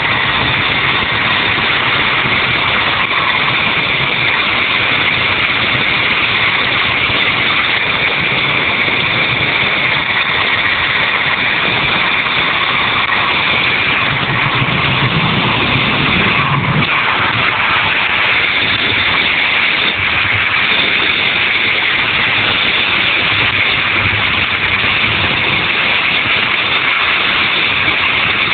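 Helicopter running: a loud, steady engine and rotor din with a high whine held throughout.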